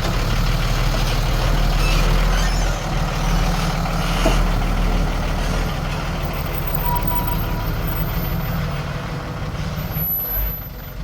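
Heavy diesel machinery running steadily under load, its engine easing off about ten seconds in.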